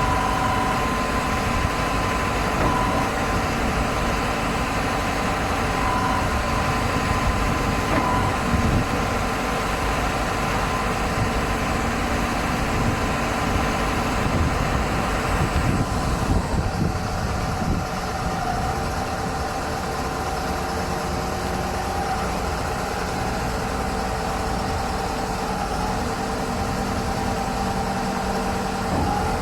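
Self-loading concrete mixer's engine and machinery running steadily, with a thin whine over the engine noise. About 16 seconds in the sound changes: the hiss higher up drops away and the whine shifts slightly lower.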